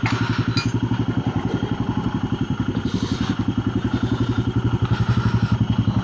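Royal Enfield Himalayan 450's single-cylinder engine running at low revs with a steady, even pulsing beat.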